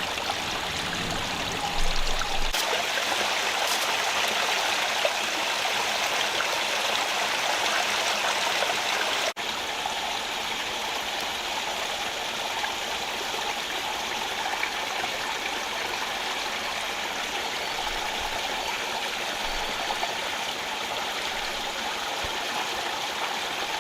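Steady rush of a rocky rainforest stream flowing over stones. The sound cuts out for an instant about nine seconds in, then continues a little quieter.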